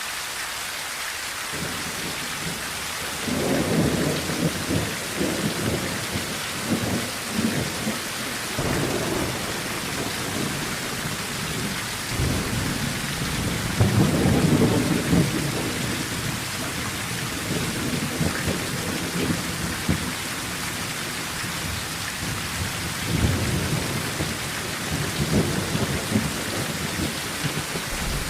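Steady rain on a tin roof with rolling thunder. The rumbles swell and fade several times and are loudest about four seconds in and again around fourteen seconds.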